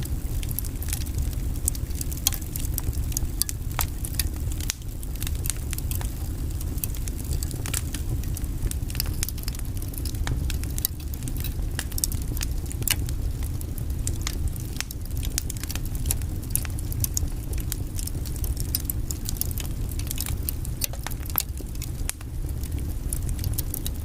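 Wood fire in a fireplace burning logs: a steady low rumble of flames with many small, irregular crackles and pops throughout.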